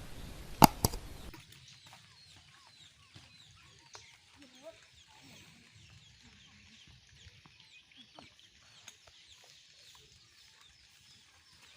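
A chicken clucking faintly now and then, with small birds chirping high in the background. Two sharp knocks about half a second in.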